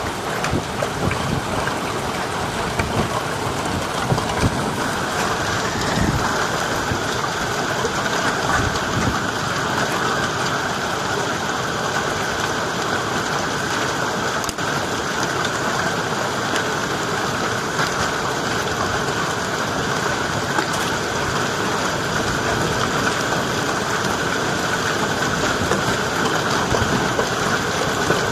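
Heavy storm rain pouring steadily, with scattered sharp hits in roughly the first nine seconds.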